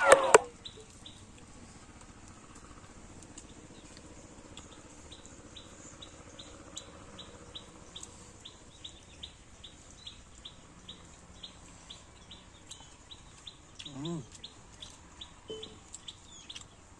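Birds calling outdoors. A chicken gives one loud, short, falling squawk at the start, and a short wavering call comes about fourteen seconds in. Behind it a small bird's high chirp repeats steadily, about three times a second.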